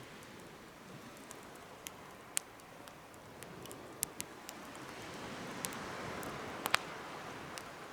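Wood campfire crackling: a steady hiss of burning with irregular sharp pops, the loudest about two and a half seconds in and a close pair near the end.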